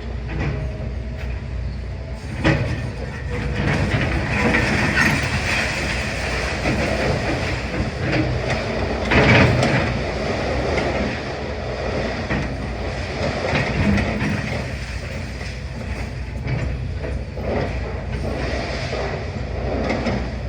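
Demolition excavator at work: its diesel engine runs steadily under irregular clanks and crunches of masonry breaking and rubble falling. The loudest crash comes about nine seconds in.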